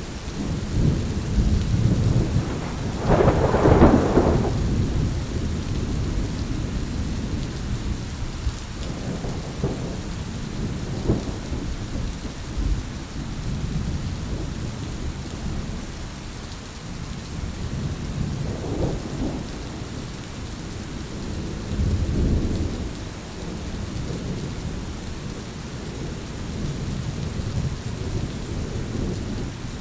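Thunderstorm: steady heavy rain with rolling thunder rumbling low underneath. A loud crack of thunder comes about three to four seconds in, and weaker rumbles swell again later.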